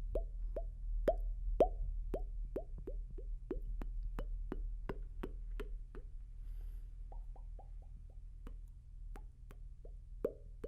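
ASMR mouth sounds close to the microphone: a steady string of short popping clicks, each dropping quickly in pitch, about three a second. The pops pause briefly past the middle, then come back faster and higher for a moment; a low steady hum runs underneath.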